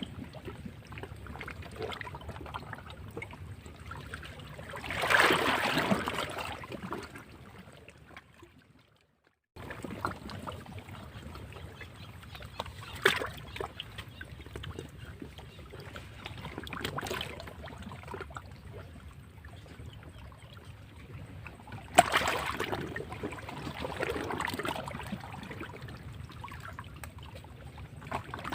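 Sea waves washing against rocks, with swelling surges of spray about five seconds in and again with a sharp splash a little past the two-thirds mark. The sound drops out briefly about a third of the way in, then resumes.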